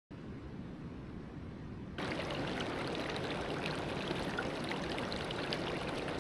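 Rushing water of a waterfall and its stream, a steady hiss with no tones. It is softer and duller at first, then suddenly louder and brighter about two seconds in.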